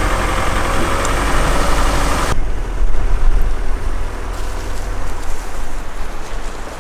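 Nissan X-Trail driving slowly along a rough forest track: engine running under a steady low rumble of tyres and body noise. A broad hiss over it cuts off suddenly about two seconds in.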